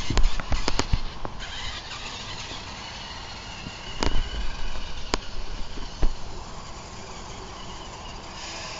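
Monster truck being driven: a run of sharp knocks and clatters at the start, more knocks a few seconds in, and a faint high whine from about three seconds in.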